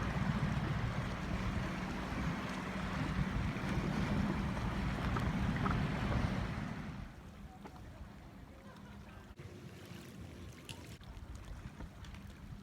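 A motorboat's engine hums steadily under wind and water noise. It drops away abruptly about seven seconds in, leaving a much quieter background.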